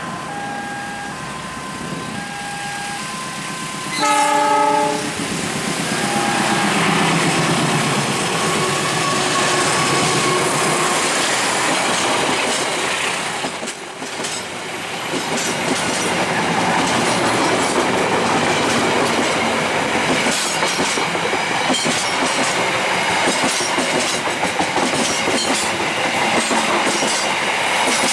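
Electronic warning beeps in two alternating tones, then about four seconds in a short blast of a diesel locomotive's horn. The locomotive's engine note falls in pitch as it passes, and the passenger coaches roll by close, their wheels clacking steadily over the rail joints.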